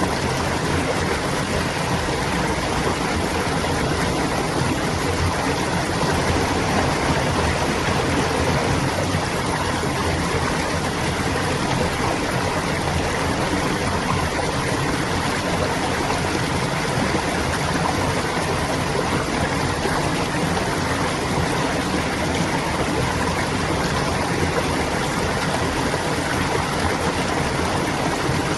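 Clear stream water flowing and gurgling steadily over stones.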